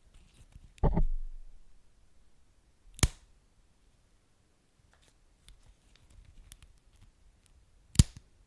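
Wood fire crackling: three sharp pops, about a second, three seconds and eight seconds in, with faint small ticks between.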